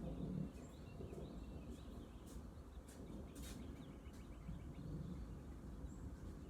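Rural outdoor ambience under a steady low rumble, with a few faint, short bird chirps and brief hissy strokes over it.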